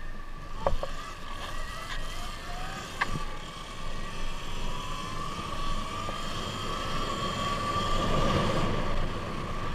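Sur-Ron X electric dirt bike's motor whining steadily as it is ridden, its pitch drifting slightly up and down, with a couple of sharp clicks in the first few seconds.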